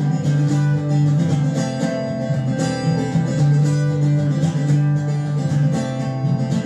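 Live acoustic string band playing an instrumental break of an Appalachian folk song: strummed guitar with plucked string lines over a steady beat, no singing.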